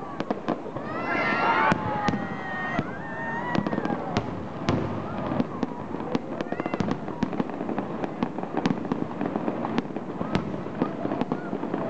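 Fireworks display: an irregular string of sharp bangs and crackling pops, coming thick and fast throughout.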